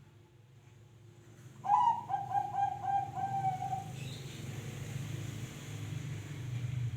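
Zebra dove (perkutut) cooing: one call starting early in the second half-second, a louder opening note followed by a quick run of about half a dozen short, rhythmic coos lasting about two seconds. A low steady hum runs underneath.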